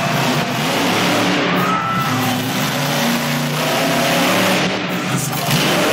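A truck engine running loud and hard, with music playing underneath.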